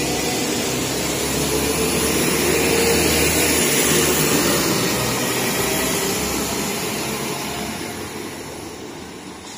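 Northern Ireland Railways Class 4000 diesel multiple unit passing close by: a steady rumble and rush of wheels and engines. It swells about three to four seconds in, then fades as the train moves away.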